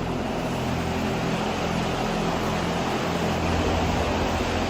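Steady hum of machinery with a constant rush of air, unchanging throughout, as in a running paint booth.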